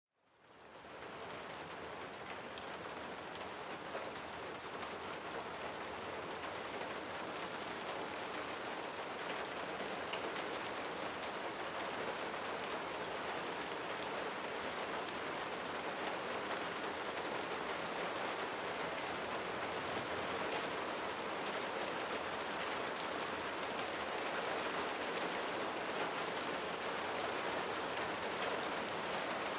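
Steady rain falling, fading in from silence over the first second and then holding an even, dense patter.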